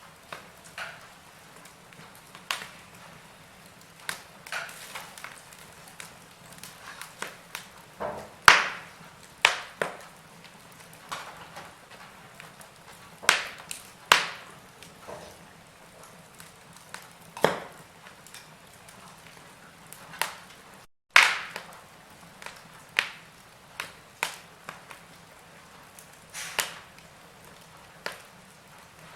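Wood fire in a fireplace crackling, with irregular sharp pops over a soft steady hiss. The sound cuts out for a split second about 21 seconds in, just before one of the loudest pops.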